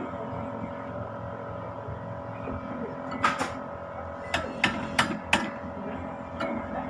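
A machine running with a steady hum, with a run of six sharp knocks in the middle and one more near the end.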